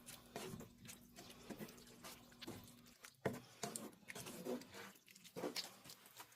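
Faint, irregular soft clicks and wet plops from a pan of tomato-and-spice curry sauce cooking, over a faint steady low hum.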